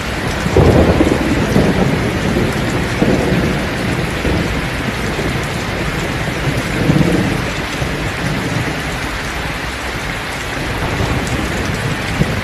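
Heavy rain pouring steadily, with low rolls of thunder that swell up about half a second in and again around seven seconds.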